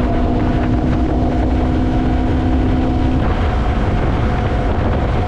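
Yamaha MT-03 motorcycle engine running at a steady cruising speed, with wind rushing over the microphone. The engine note holds steady, thinning slightly about three seconds in.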